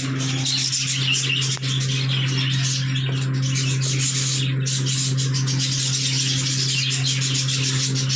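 A flock of budgerigars chattering and chirping continuously, over a steady low hum.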